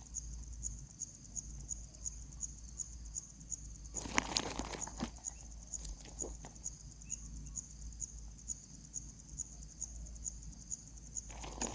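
An insect chirping steadily in a high, even pulse of about three to four beats a second, with a brief rustle about four seconds in and a few faint clicks.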